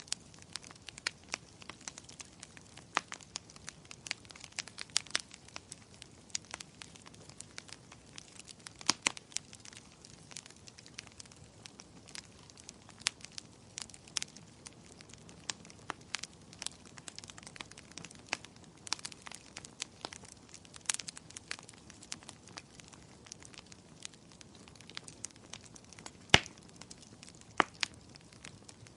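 Wood fire burning in a fireplace, crackling and popping irregularly over a faint hiss, with one louder pop near the end.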